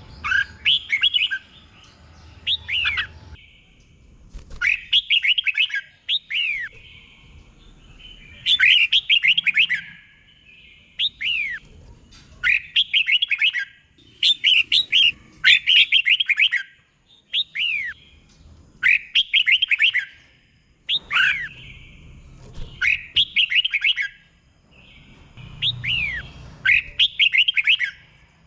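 Red-whiskered bulbul singing: about a dozen short phrases of quick, falling whistled notes, one every second or two, some phrases doubled in pairs.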